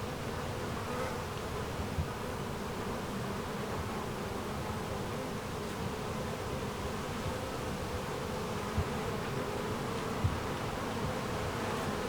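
A steady, even buzzing hum with a low rumble underneath.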